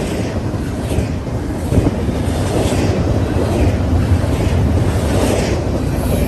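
Train rolling past with a steady low rumble, with wind buffeting the microphone.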